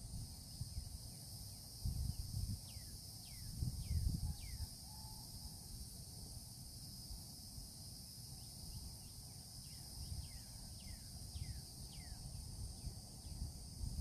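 A steady high-pitched insect chorus of crickets or katydids, with a bird giving runs of short whistled notes that slide down in pitch, one run a few seconds in and another through the second half. Low rumbles come and go underneath.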